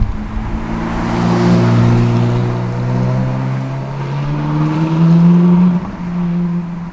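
A performance car's engine and exhaust accelerating past, its pitch rising steadily over several seconds, then dropping suddenly about six seconds in.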